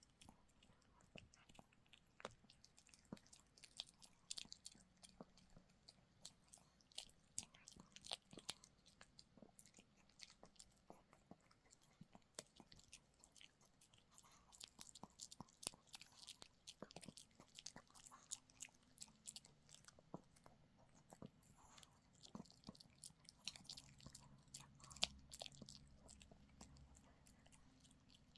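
Dog gnawing and crunching on a chew treat: many irregular sharp cracks and crunches from its teeth, with one louder crack near the end.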